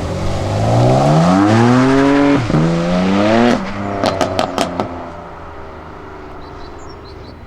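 A performance car accelerating hard away: the engine revs climb, drop briefly at a gear change and climb again. Near the halfway point the throttle shuts and a quick string of sharp exhaust pops follows before the engine fades into the distance.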